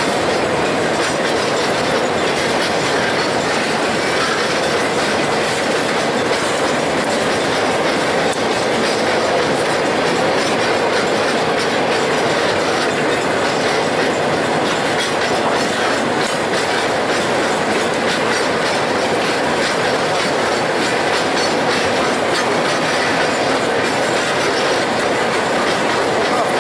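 Iron ore train's cars rolling past at a steady speed, their wheels clattering continuously over the rail joints.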